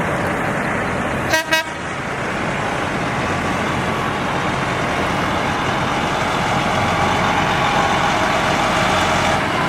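Two quick toots of a truck horn about a second and a half in, over the steady running noise of a truck.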